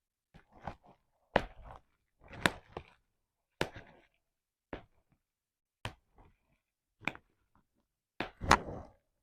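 Bubble wrap being popped: sharp single pops at irregular intervals, about ten in all, some followed by brief rustling of the plastic. The loudest pop comes near the end.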